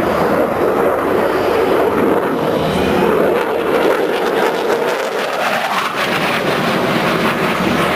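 Military aircraft flying past, its engines making a loud, steady noise whose tone sweeps and shifts about five seconds in.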